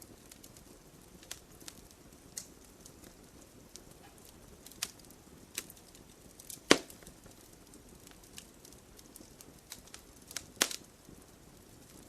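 Wood fire crackling, with sharp irregular pops and snaps over a low steady hiss; the loudest snap comes a little past halfway, another near the end.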